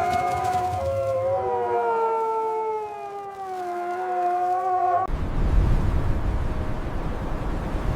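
A wolf pack howling: several long, overlapping howls slowly falling in pitch. About five seconds in the howling cuts off suddenly and loud blizzard wind rushes in.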